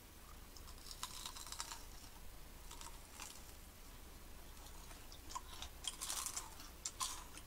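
People chewing and biting into homemade churros: faint, clicky mouth sounds in scattered clusters, busiest near the end.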